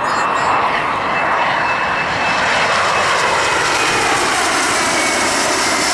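Jet airliner on final approach passing low overhead: a loud, steady jet roar with a thin turbine whine that slowly falls in pitch as it goes by.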